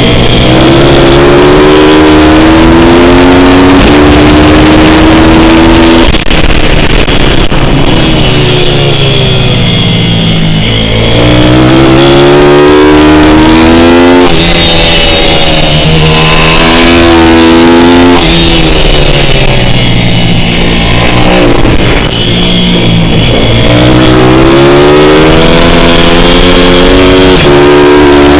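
Pit bike's small single-cylinder four-stroke engine run hard and loud, its pitch climbing as it accelerates, holding, then dropping as it backs off, over and over. These are the throttle-on, throttle-off cycles of laps on a motard track.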